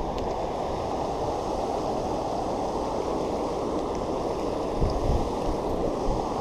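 Steady rushing of river water over a waterfall, with a few low thumps on the microphone a little before the end.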